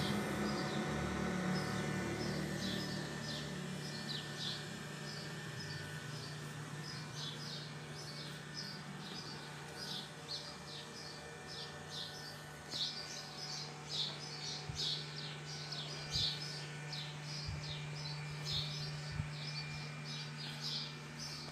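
Small birds chirping in quick, irregular runs, busier in the second half, over a steady low hum.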